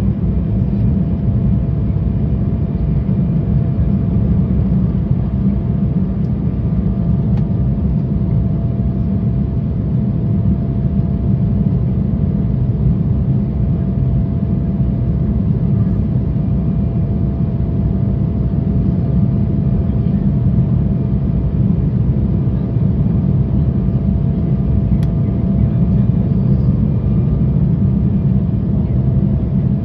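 Steady cabin noise inside an Embraer 175 airliner: a constant low rumble from its GE CF34 turbofan engines and airflow, with a faint steady tone above it.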